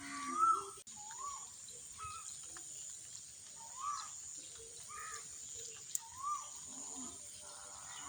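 A bird calling outdoors, a short rising-then-falling note repeated about six times at irregular intervals, over a steady high hiss.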